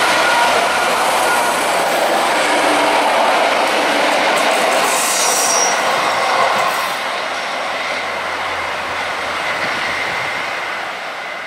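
SA138 diesel railcar with a trailing 120A passenger coach passing and moving away: wheels rumbling and clicking over the track, fading as the train recedes round the curve. A brief high wheel squeal comes about five seconds in.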